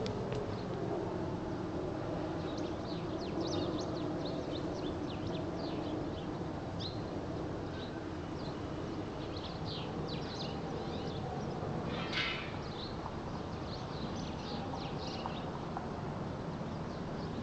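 Small birds chirping busily in quick, short notes, with one louder call about two-thirds of the way through, over a steady low background rumble.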